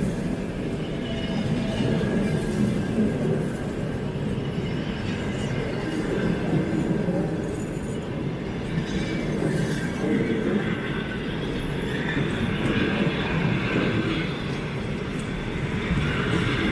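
Freight train's wagons rolling past, a steady noise of steel wheels on the rails.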